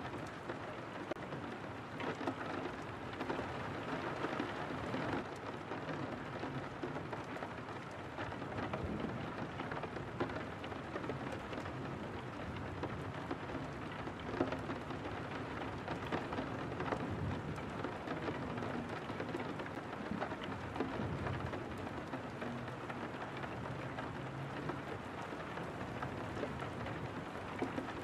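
Steady rain falling on a window pane: an even hiss of rain thick with the small taps of individual drops, a few of them louder than the rest.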